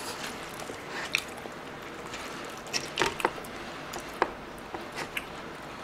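Close-miked eating sounds of tteokbokki and fried snacks being chewed: soft wet squishes and scattered short smacks and clicks. The loudest come a little after three seconds and just past four seconds.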